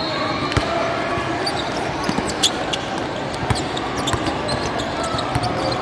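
Basketball bouncing on a hardwood gym floor during play, short sharp strikes scattered through, over steady crowd chatter in a large echoing hall.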